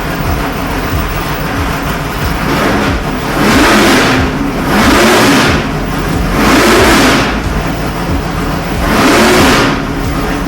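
632 cubic-inch fuel-injected big-block Chevy V8 with a solid-roller cam idling on an engine dyno, its throttle blipped four times. The revs rise and fall about three and a half, five, six and a half and nine seconds in.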